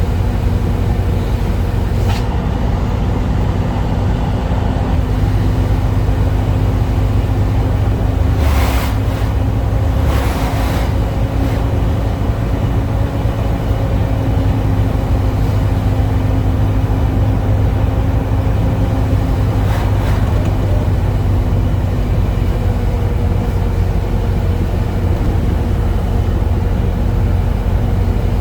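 Scania truck's diesel engine running steadily at cruising speed in top direct gear, a constant low drone. Two brief hissing noises come about eight and a half and ten seconds in.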